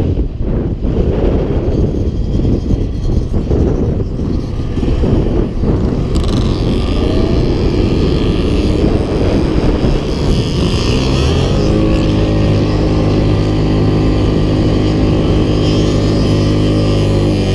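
Off-road quad and motorbike engines running loud, rough and uneven for the first several seconds. From about twelve seconds it settles into a steady drone at constant pitch.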